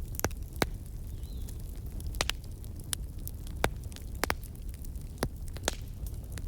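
Wood fire crackling: sharp, irregular pops and snaps, a dozen or so, over a steady low rumble.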